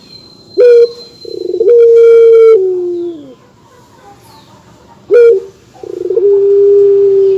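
A dove cooing twice, loud and close. Each coo is a short rising note, then a long drawn-out coo that begins with a brief roll and falls in pitch as it ends.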